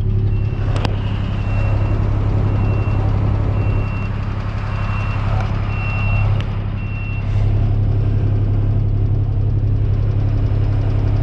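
Farm loader's diesel engine running steadily, with its reversing alarm beeping about once every 0.8 seconds. About seven seconds in the beeping stops and the engine runs a little harder.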